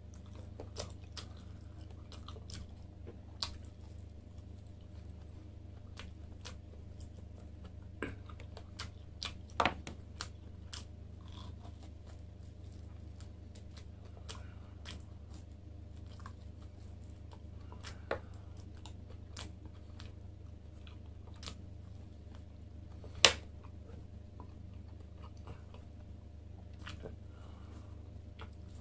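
Close-up chewing and biting of grilled lamb chops eaten by hand, gnawed off the bone, with scattered short mouth clicks and smacks over a steady low hum. The loudest is one sharp click about two-thirds of the way through.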